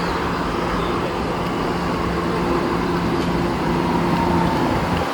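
Staten Island Railway subway train at the platform, giving a steady electrical hum with a few held tones over a low rumble.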